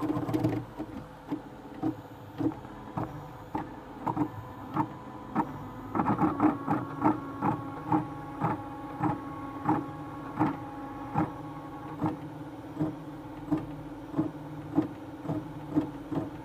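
3D printer's bowden extruder stepper motor knocking sharply and repeatedly over the steady hum of the printing motors, with a whining tone in the middle stretch. This is a very scary, horrible noise from the extruder, caused by Marlin's Linear Advance set to K=1100 for a 3 mm bowden setup.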